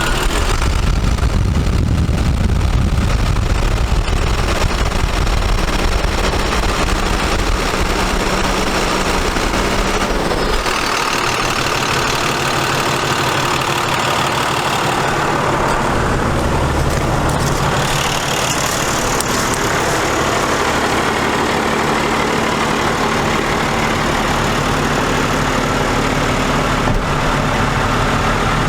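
International DT466 diesel engine running at a steady idle, its note changing about ten seconds in.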